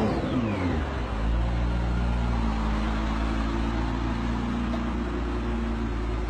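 McLaren P1's twin-turbo V8 engine: its revs fall back in the first second after a blip, then it idles steadily.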